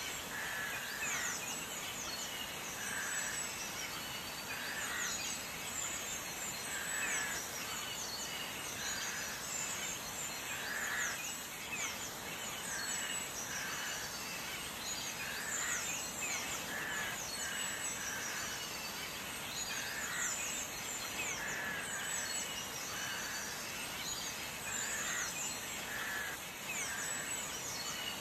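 Birds chirping over a steady hiss: many quick, high, falling chirps, with a lower note repeating about every two seconds.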